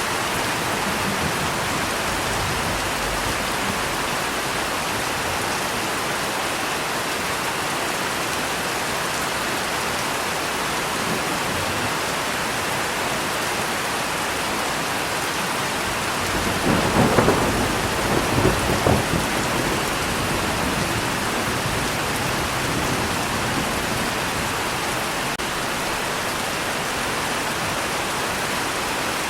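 Steady heavy rain falling, with a roll of thunder rumbling up a little past halfway through and fading within a few seconds.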